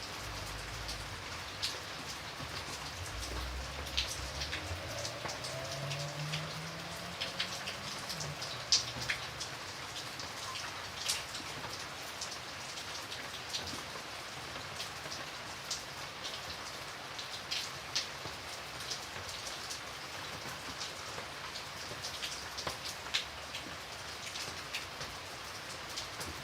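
Steady rain falling, with many separate drops landing close by as sharp ticks over the even hiss.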